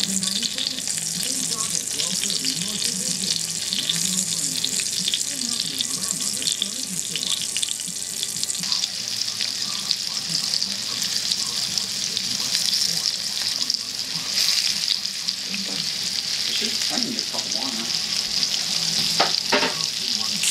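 Breaded chicken strips frying in hot oil in a skillet: a steady sizzle that grows stronger about halfway through as more strips are laid into the pan. A few sharp clicks near the end.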